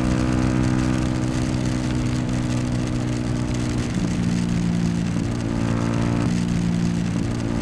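Yamaha YZF-R125's single-cylinder four-stroke engine running steadily while riding, its pitch shifting slightly a few times, over a steady rush of wind and road noise.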